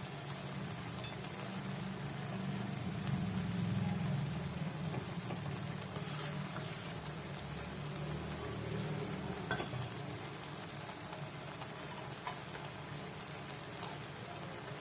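Faint rustling and a few light ticks as fried onion is sprinkled over layered rice in a cooking pot, over a steady low hum.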